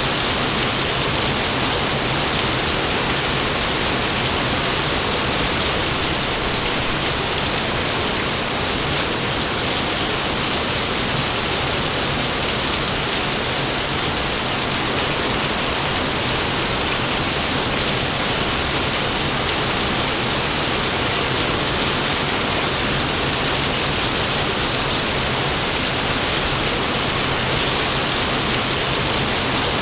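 Heavy rain pouring down steadily, an even hiss with no thunder.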